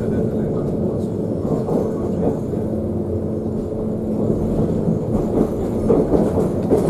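Passenger train running at speed, heard from inside the carriage: steady wheel-on-rail running noise with a low hum, and more rattling in the last couple of seconds.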